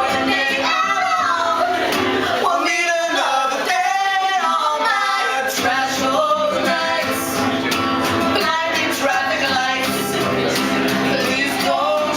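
Live music: male and female voices singing over steady instrumental accompaniment, with the sound of a large room.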